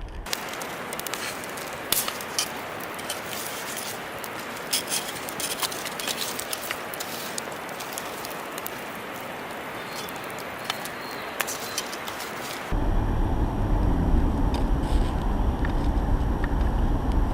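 Wood fire crackling: a steady hiss with frequent sharp pops and snaps. About thirteen seconds in it cuts abruptly to a steady low rumble, like wind or road noise.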